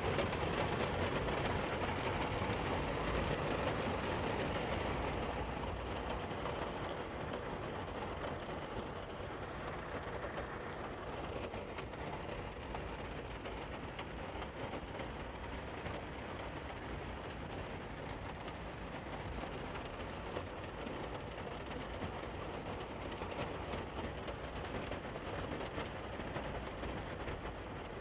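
Steady rain pattering on the roof of a Toyota van, heard from inside, a little heavier for the first few seconds and then easing to an even patter.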